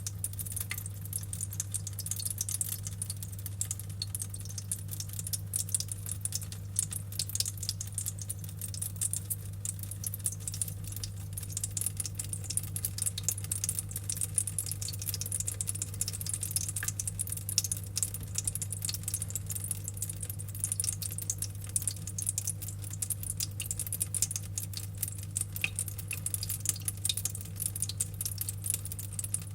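Rain-cloud humidifier dripping water continuously, a dense pattering of small drops, over a steady low hum.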